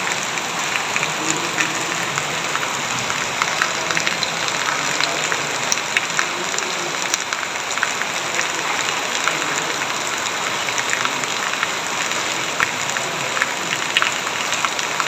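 Heavy rain falling steadily, a dense hiss with many separate drops ticking as they hit.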